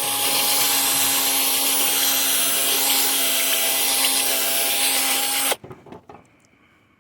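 Handheld electric power tool running at a steady speed, a constant whine over a loud whirr, then switched off about five and a half seconds in.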